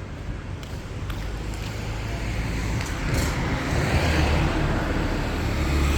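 Street traffic: a motor vehicle approaching and passing close by over a steady rumble, growing louder and loudest near the end.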